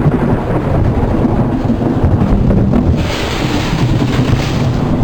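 Thunder rumbling low and long after a close lightning strike, mixed with wind buffeting the microphone. A hissing rush of wind-driven rain joins about three seconds in.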